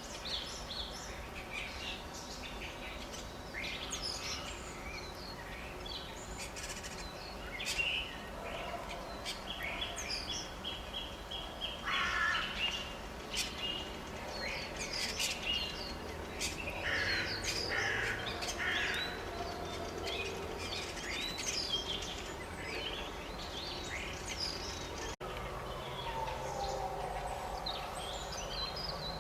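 Several wild birds singing and calling together, a mix of short chirps, whistles and a fast trill, with a slow falling call near the end.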